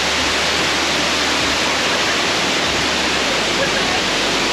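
Bridal Veil Falls waterfall: a loud, steady rush of falling water.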